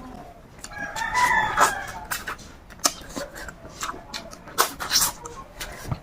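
Wet mouth clicks and smacking of someone eating spicy chicken feet curry, with a drawn-out pitched call about a second in that stands out above the eating.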